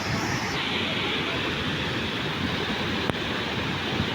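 Steady rushing noise of water, with one short click about three seconds in.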